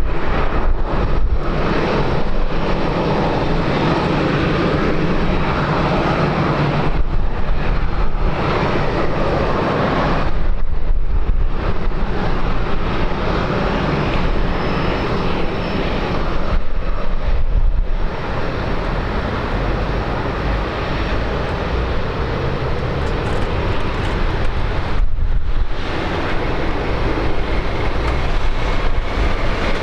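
Engine noise of an aircraft arriving on the runway: a loud, continuous rush that dips briefly a few times.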